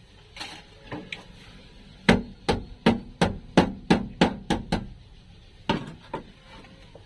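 Hammer blows in a quick, even run of about nine strikes, three to four a second, followed by two more separate blows near the end.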